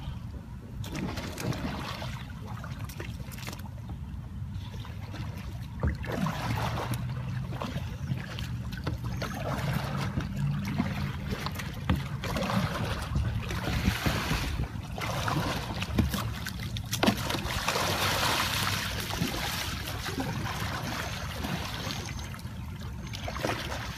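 Water splashing and sloshing around a Nigel Dennis Romany sea kayak as it capsizes and is rolled back upright with a paddle. The splashing is loudest about three-quarters of the way through.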